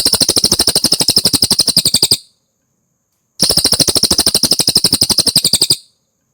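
Cililin songbird calling in two rapid, even trills, each lasting a little over two seconds with a pause of about a second between them. The trills are loud and high-pitched.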